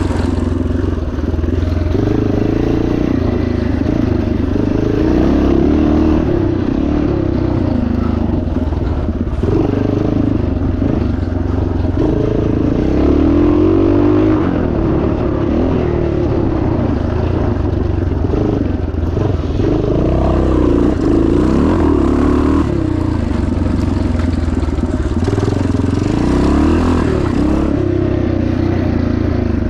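1977 Yamaha TT500 single-cylinder four-stroke dirt bike engine running hard, its revs rising and falling continuously as the throttle is worked.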